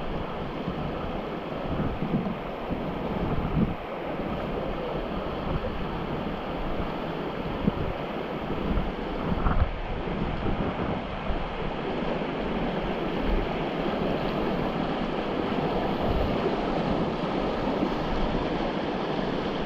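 Rushing river water: a steady, even rush of whitewater, with wind buffeting the microphone in uneven low rumbles and a few brief louder moments in the first half.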